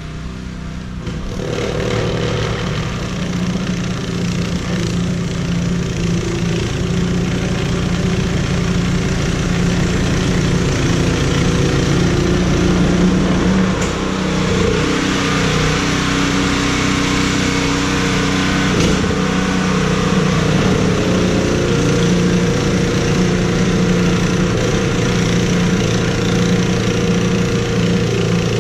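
An engine running steadily, getting louder about a second and a half in, its pitch shifting slightly now and then.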